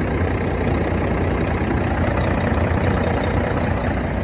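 1995 Mack CH613 heavy-haul truck's diesel engine idling steadily, a low, even sound with no change in speed.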